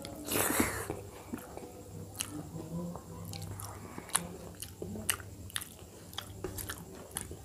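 Close-up mouth sounds of a person eating dal and rice by hand: a loud wet noise as a handful goes into the mouth about half a second in, then chewing with many short, sharp lip smacks and clicks.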